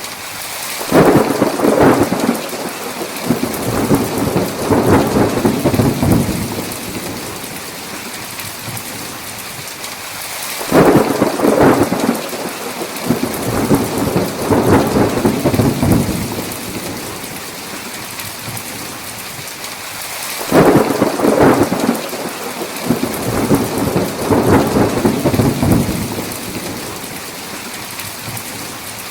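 Thunderstorm: steady heavy rain with three long rolls of thunder about ten seconds apart, each swelling twice before dying back into the rain.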